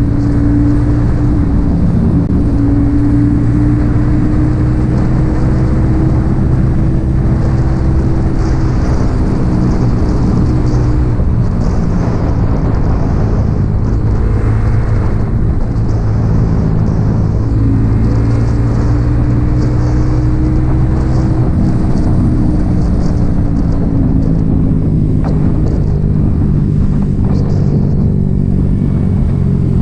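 Yamaha XSR 155's single-cylinder engine running through an M4 aftermarket exhaust while riding at a fairly steady speed, its note rising and easing gently a couple of times, over a steady rush of noise.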